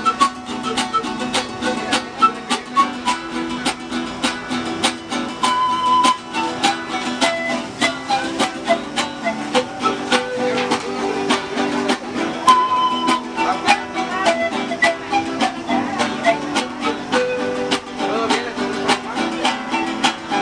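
Music on plucked, guitar-type string instruments, strummed in a steady rhythm under a melody whose phrase repeats about every seven seconds.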